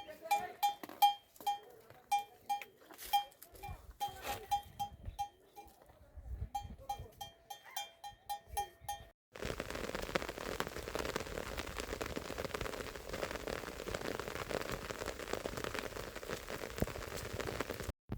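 Metal bell on a farm animal's neck clanking in a quick ringing rhythm, about three strokes a second, with a short pause midway. About nine seconds in, it cuts off abruptly to a steady even hiss.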